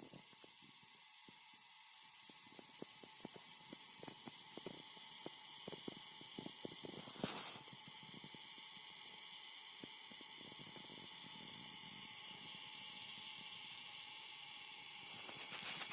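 Phoenix Contact QUINT-PS 12 V, 15 A switched-mode power supply running with a steady high hiss and a few faint whining tones, slowly getting louder. The uploader regards the strong hiss as a fault: it is there on all four units he has and does not go away with a load on the output. Scattered faint clicks, with two short louder sounds about seven seconds in and near the end.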